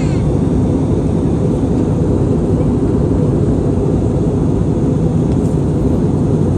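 Steady cabin noise of an Airbus A320neo in flight: an even low rumble of engines and airflow.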